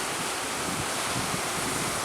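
Sea waves washing under a strong wind, with the wind buffeting the microphone; a steady rush of noise with low rumbling gusts.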